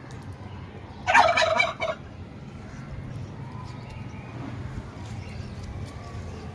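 Domestic turkey gobbling once about a second in, a quick rattling run of notes lasting under a second.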